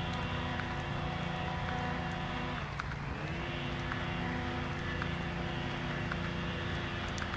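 A steady, pitched mechanical hum like a running motor, which dips in pitch and comes back up about three seconds in.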